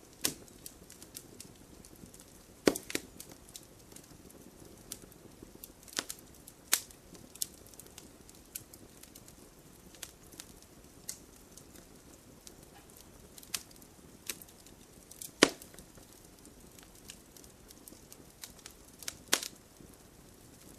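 Campfire crackling: irregular sharp pops and snaps of burning wood over a faint low hiss, with a few louder cracks scattered through.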